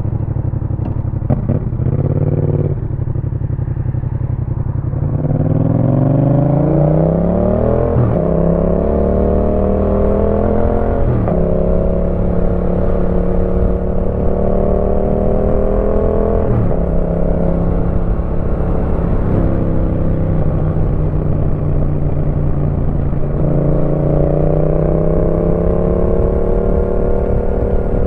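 2018 Yamaha MT-07's parallel-twin engine through an aftermarket Roadsitalia exhaust, pulling away and accelerating up through the gears. The engine pitch climbs and drops back at each of several upshifts, holds steady while cruising, then climbs again near the end.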